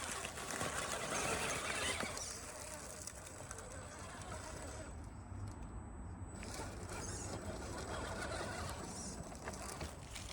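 Axial SCX10 RC rock crawler's electric motor and geared drivetrain whining as it crawls over rocks, louder in the first couple of seconds and then easing off.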